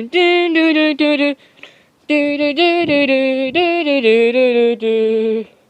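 A voice singing a wordless tune on repeated "dun dun" syllables, in short held notes, with a brief pause before the middle.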